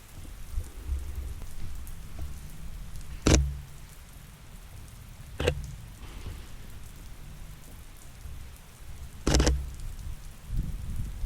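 Steady rain falling and pattering on surfaces, with three short sharp clicks spaced a couple of seconds apart.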